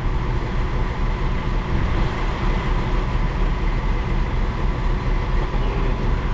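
Heavy equipment engine running steadily at a constant speed.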